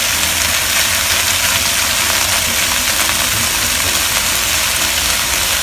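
Prawn heads sizzling steadily in hot oil in a wok, over a steady low hum.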